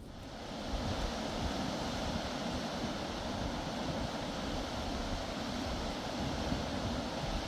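Wind blowing in gusts across the microphone: a steady rushing hiss with uneven low buffeting, setting in abruptly and swelling over the first second.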